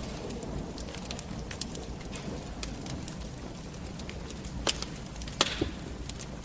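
Fire burning in a fireplace, crackling with scattered sharp pops over a low steady rumble. The loudest pops come about five seconds in.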